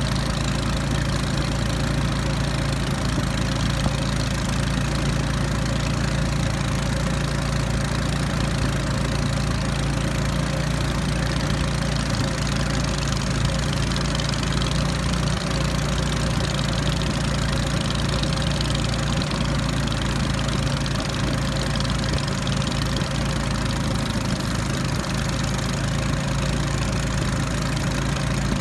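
The raft's small engine running steadily at a constant speed, with a low, even drone.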